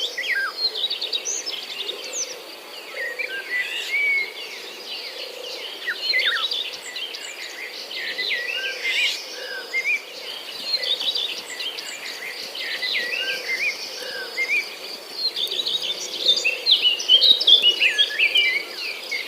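Many short, quick bird chirps, rising and falling, over a steady high insect buzz like crickets.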